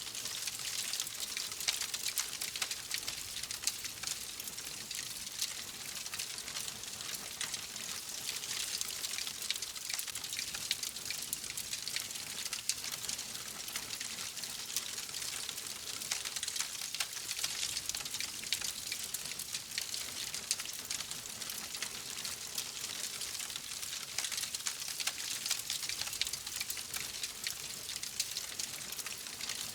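Wood fire crackling steadily: a continuous hiss thick with small, quick pops and snaps.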